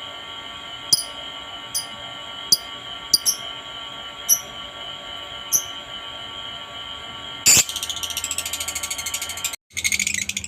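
Lovebird giving short, sharp chirps about once a second over a steady high-pitched whine, then a loud call about three-quarters of the way in that breaks into fast, rapidly repeated chattering. The sound cuts out abruptly near the end and the chattering starts again.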